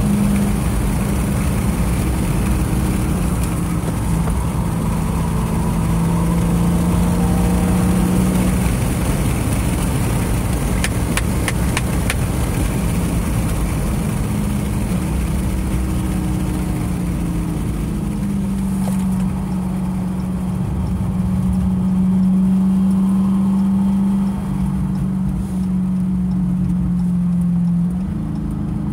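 2015 Dodge Charger SRT 392's 6.4-litre HEMI V8 under load at track speed, heard from inside the cabin. The engine note holds steady, eases off around nine seconds in and builds again around eighteen seconds in. A brief run of sharp clicks comes about eleven seconds in.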